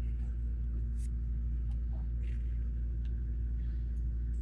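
Steady low hum, with a few faint, light clicks of plastic Lego pieces being handled.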